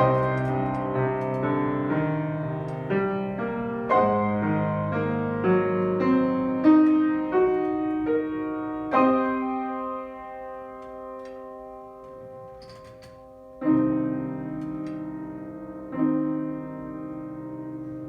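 Solo piano playing a classical piece: a busy passage of quickly struck notes, then three held chords struck a few seconds apart, each left to ring and fade.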